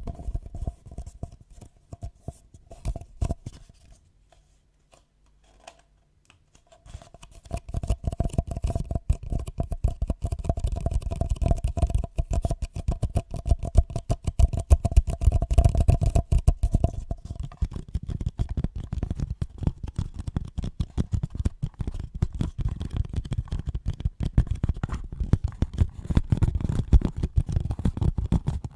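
Close-miked ASMR trigger sounds: rapid, dense scratching and crackling, with a brief pause about a quarter of the way through before they resume.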